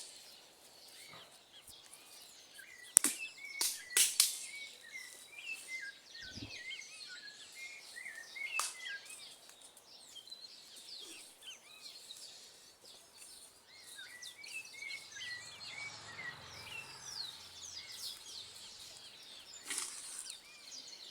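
Birds chirping and calling outdoors in short repeated chirps, with a few sharp clicks or snaps standing out now and then.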